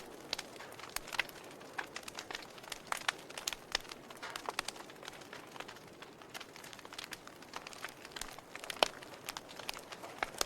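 Logs burning in a fireplace, crackling: irregular sharp pops and snaps over a soft steady hiss, with one louder pop a little before the end.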